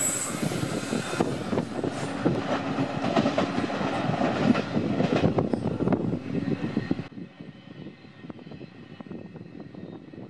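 Indian Pacific passenger train's wheels rumbling and clattering over rail joints and points as the train moves away. About seven seconds in the sound drops sharply, leaving faint, scattered clicks.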